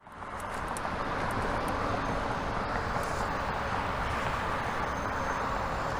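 Steady rush of wind and tyre noise from a bicycle being ridden, fading in at the very start and then holding even.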